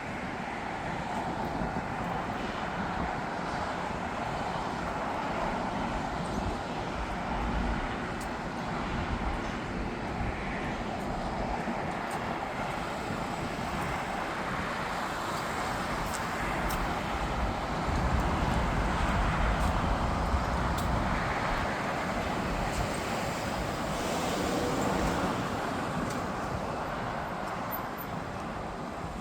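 Jet airliner engines making a steady rumble and roar. It swells to its loudest a little past halfway, then eases off.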